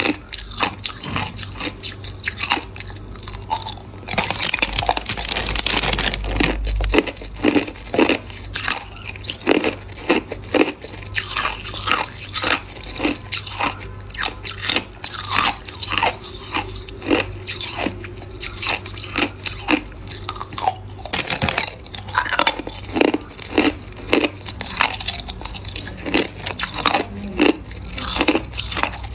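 Hard clear ice being bitten and chewed close to the microphone: a run of sharp, irregular crunches and cracks, several a second, with a louder stretch of crunching about four seconds in.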